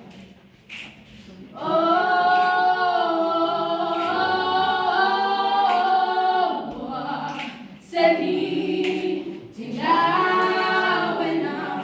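A group of voices singing together a cappella in long, held phrases, starting after a quieter first second or so.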